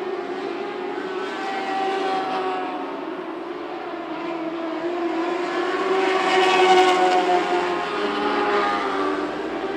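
Several lightning sprint car engines racing together at high revs, their pitches overlapping and bending as the cars go around the track; the sound swells about six seconds in as cars pass close.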